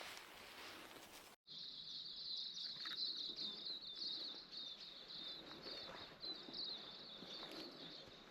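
Rustling for about the first second, then after a short break a steady, high-pitched chorus of insects chirring with a fast flutter, over faint rustles in vegetation.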